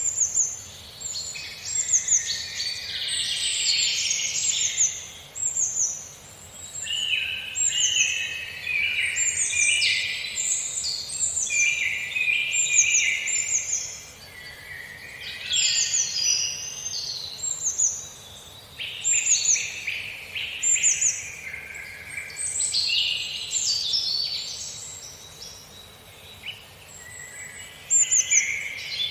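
Several birds singing at once: many short, high notes sweeping downward over a denser layer of warbling. The chorus swells and thins in waves.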